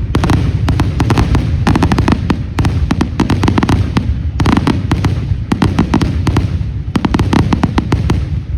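Fireworks going off in a dense barrage: a continuous low rumble of booms under rapid clusters of sharp crackling cracks.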